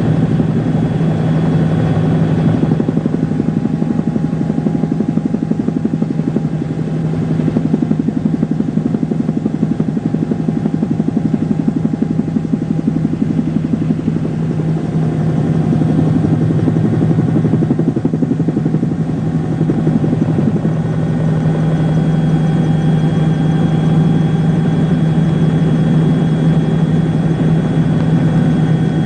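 An engine running steadily, a constant low drone that holds the same pitch throughout.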